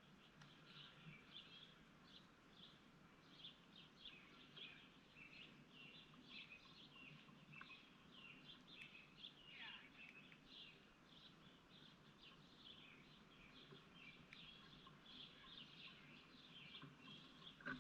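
A faint, busy chorus of small birds chirping, short calls overlapping without a break, with one longer call sliding down in pitch about halfway through.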